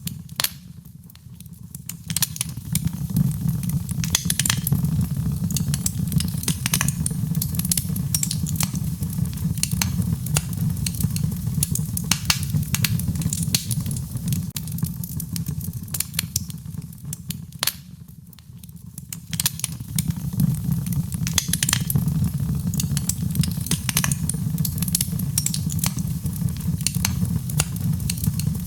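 Wood fire crackling in a fireplace: a steady low rumble of flames with frequent sharp pops and snaps. The rumble drops away briefly about a second in and again about eighteen seconds in.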